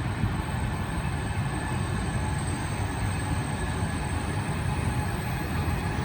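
A train running on the track: a steady rumble with a few faint high-pitched tones above it.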